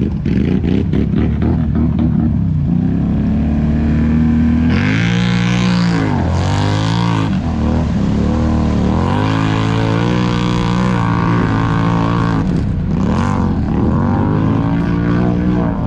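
ATV engine revving hard, its pitch climbing and falling several times, over another engine running steadily.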